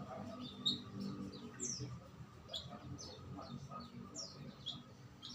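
Songbirds chirping: short high chirps and quick down-sweeping calls repeating irregularly, over a low steady background hum.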